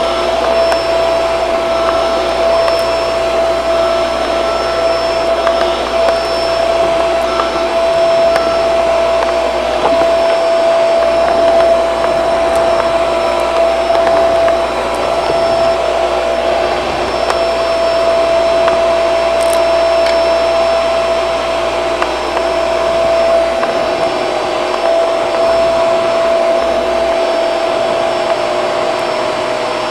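Shark vacuum cleaner running steadily while vacuuming, its motor giving a constant whine over the rush of air.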